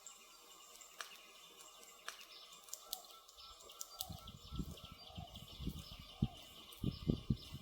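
Wood fire crackling, with sharp little crackles throughout and, from about halfway, a run of deeper, louder pops that peaks near the end.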